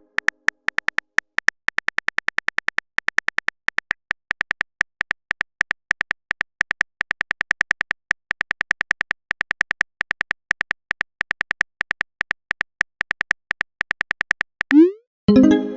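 Phone keyboard typing sound effect: fast, uneven runs of short clicks, then a quick rising swoop near the end followed by a ringing chime-like message tone.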